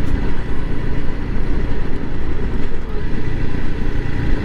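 Honda CRF300L Rally's single-cylinder engine running steadily under way, mixed with heavy wind rush over the microphone.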